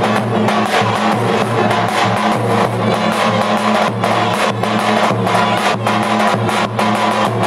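Live Turkish wedding dance music, with sustained melody tones over a steady drum beat.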